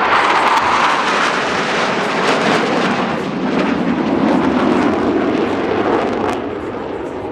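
Blue Angels F/A-18 Super Hornet jets passing by with a loud, crackling jet roar that drops in pitch as they go past.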